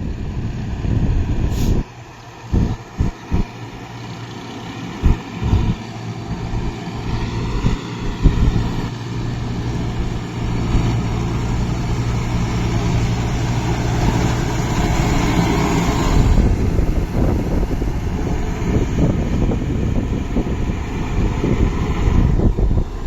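Kubota MU5502 tractor's diesel engine running under load while working a rotavator. The engine note climbs slightly several seconds in and then holds steady. Low irregular gusts of wind on the microphone are heard during the first several seconds.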